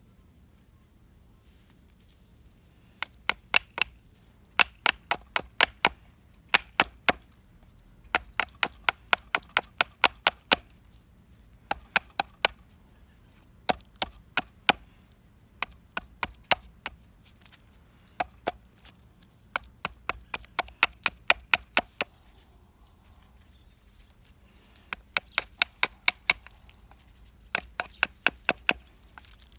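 Dead pine fatwood being chopped with quick, short strokes: sharp wooden knocks, about five or six a second, in bursts of several strikes with short pauses between.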